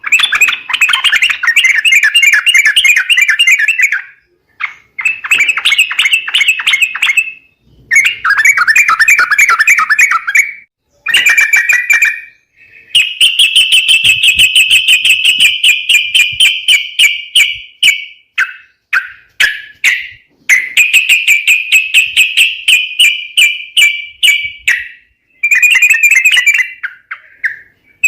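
Yellow-vented bulbul (trucukan) calls played as a bird-trapping lure: loud bursts of rapid, chattering notes a few seconds long, repeated with short gaps between them.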